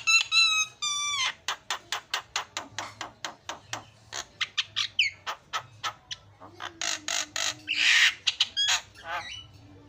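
Javan myna singing: a few whistled notes, the last one falling, then a fast run of sharp clicking notes, several a second, and a harsh rasping squawk near the end.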